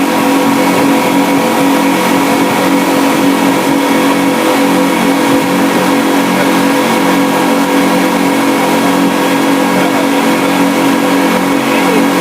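An engine running steadily at constant speed, a continuous even drone.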